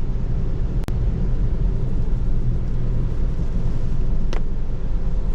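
Steady low road and tyre rumble inside the cabin of an electric Tesla Model 3 driving on rain-wet roads, with a sharp click about a second in and a fainter one later.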